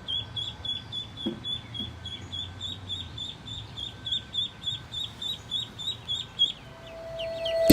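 A bird repeating a short, high, down-slurred chirp about three times a second, in a steady run that stops about a second before the end.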